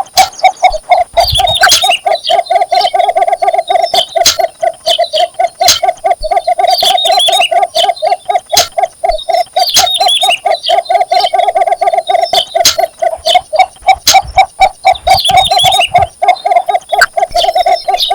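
Cinnamon bittern calling for a mate: a long, unbroken run of low notes repeated rapidly and evenly.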